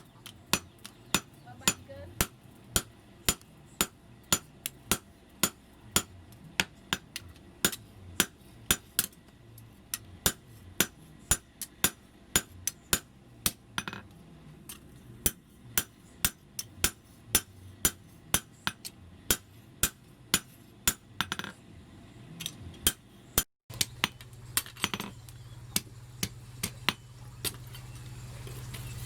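Blacksmith's hand hammer striking spring steel on an anvil, sharp ringing blows at a steady pace of about two a second. After a brief break near the end, a steady low hum comes in under a few more strikes.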